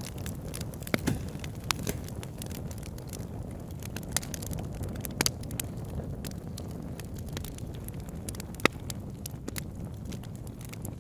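Wood fire burning in a fireplace: a steady low rumble of flames with scattered sharp crackles and pops, the loudest pops about a second in, past five seconds and near nine seconds.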